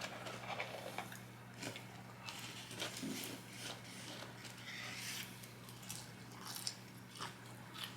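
Close-miked eating: soft bites and chewing of spicy chicken nuggets, with scattered small mouth clicks and crunches.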